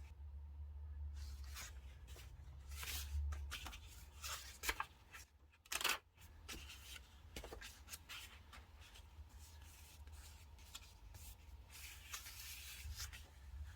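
Paper and stickers being handled on a desk for diary decorating: scattered rustles, taps and small clicks, the sharpest about five and six seconds in, with a longer rustle near the end.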